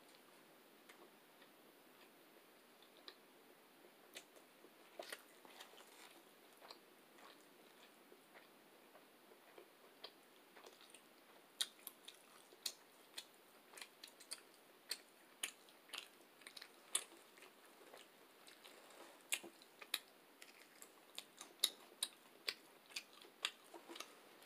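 Close-miked mouth sounds of someone chewing soft food: wet clicks and lip smacks, sparse at first and coming much faster from about halfway.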